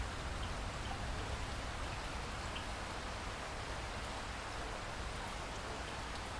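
Steady rain falling, an even hiss with a few faint separate drops.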